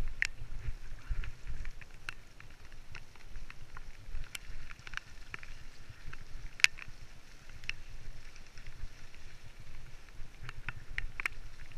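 Mountain bike on a woodland descent: a steady low rumble of wind buffeting the microphone, with irregular sharp clicks and rattles from the bike over the rough trail.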